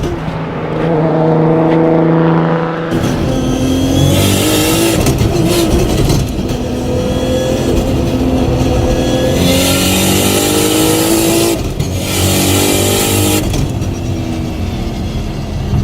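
A Nissan R34 GT-R's stroked RB26 twin-turbo straight-six accelerating hard. Its pitch climbs through several quick sequential-gearbox upshifts, each a short break before the next rising pull. Near the end it eases off and the pitch falls.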